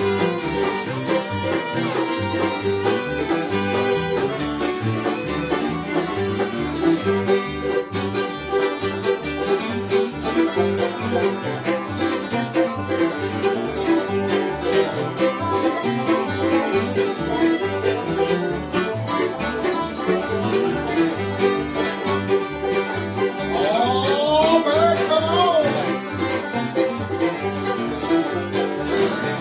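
Bluegrass instrumental played live: banjo and guitar picking with a fiddle, without singing. About two-thirds of the way through, a short run of sliding notes stands out.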